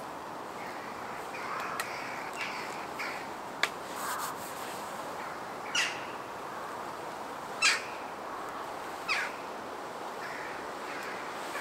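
Three short, sharp bird calls about one and a half to two seconds apart, over a steady woodland hiss, with a single sharp click a little before them.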